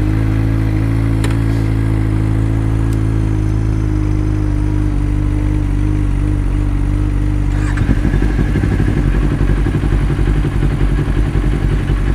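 Motorcycle engine starting up, then idling with a steady note. About eight seconds in it pulls away and the sound turns rough and uneven.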